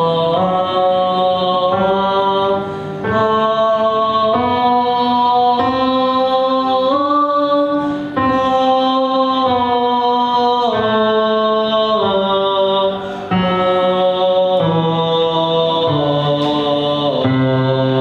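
Low bass voice singing long held notes without words, moving from one sustained pitch to the next every second or two.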